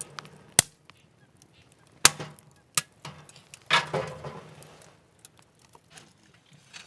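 Sharp knocks and snaps of kindling and firewood being handled and put into a small wood-burning stove: three short cracks in the first three seconds, then a longer rustling clatter a little under four seconds in.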